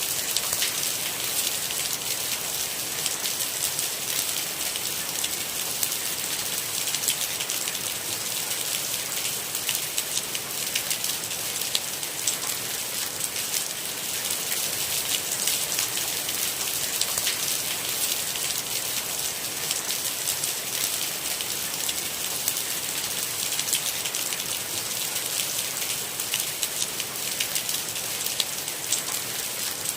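Steady rain: a dense, even hiss of falling rain with many small individual drop taps, holding level throughout.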